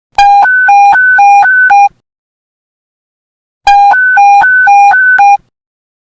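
Police radio panic-button emergency alert tone: a low and a high beep alternating, each about a quarter second long, in two bursts of under two seconds, the second starting about three and a half seconds after the first.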